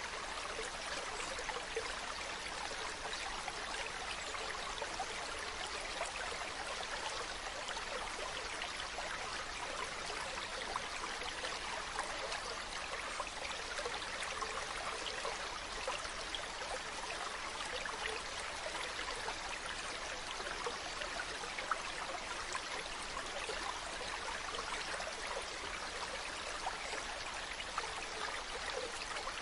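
Mountain stream running water: a steady, even rush with fine, constant trickling.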